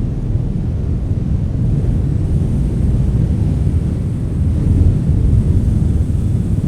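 Wind blowing strongly in a steady deep rumble, with slight gusts and no distinct tones, like wind buffeting a microphone.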